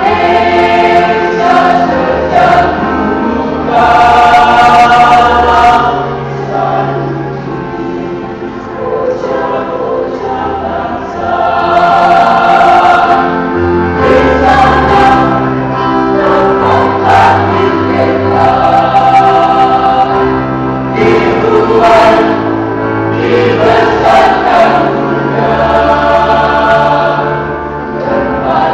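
High-school choir singing in harmony, with held chords over low bass notes and swelling, fading phrases.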